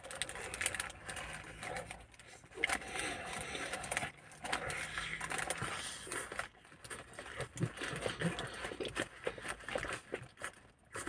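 A person chewing a mouthful of burger with crispy breaded chicken: irregular crackly, wet mouth noises in uneven bursts with short pauses.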